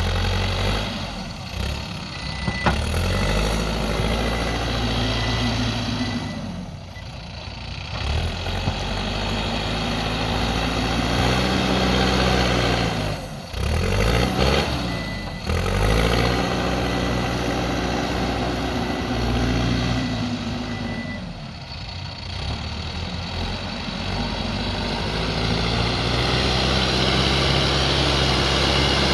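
Backhoe loader's diesel engine running and working, its pitch rising and falling again and again as the revs change under the hydraulic load.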